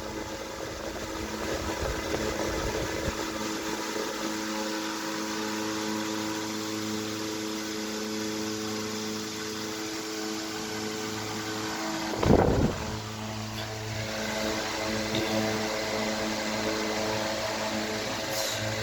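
Antique Century S3-16 16-inch electric fan running: a steady motor hum with the rush of air from its blades. A single loud thump about twelve seconds in.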